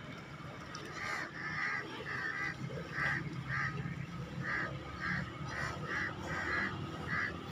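A bird calling over and over: about a dozen short calls, spaced roughly half a second apart, starting about a second in.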